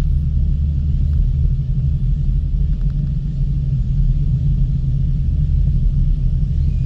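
Steady low rumble of a ropeway gondola travelling along its cable, heard from inside the cabin.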